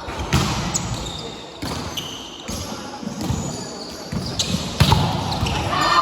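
Volleyball play: several sharp hits and bounces of the ball, spaced a second or more apart, with players' voices in between.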